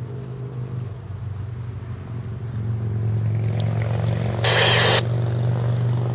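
Steady engine rumble that grows a little louder partway through, with a short, hard-edged burst of scanner radio squelch static about four and a half seconds in.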